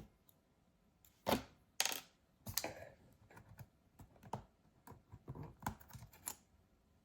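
Irregular small clicks and taps of hand tools and parts against an opened MacBook Pro laptop during disassembly, a few sharper knocks early on and lighter ticks after.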